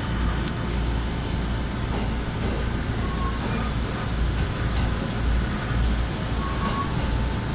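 Passenger train running, heard from inside the carriage: a steady low rumble of wheels on rail and running gear.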